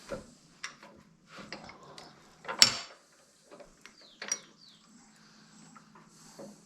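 Metal clanks and knocks from handling the lathe's fittings and tools while the wood blank is secured before turning, with the loudest clank about two and a half seconds in.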